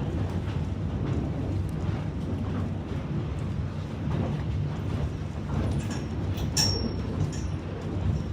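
Steady low rumble of a diesel-hauled passenger train running on the track, with a short, high squeal about six and a half seconds in.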